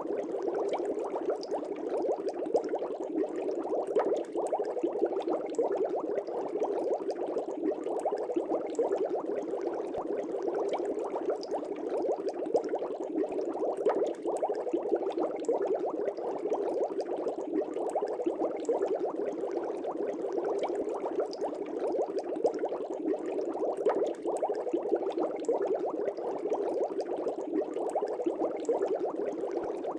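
Air bubbles streaming and popping at the water surface in an aquarium, a steady dense bubbling with many small pops.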